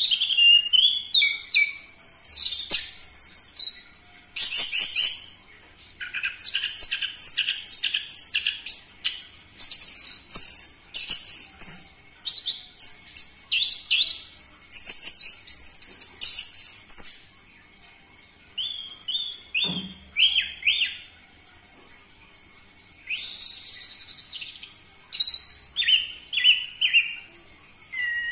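Orange-headed thrush singing: loud bouts of fast, varied whistled phrases, broken by a few pauses of a second or two.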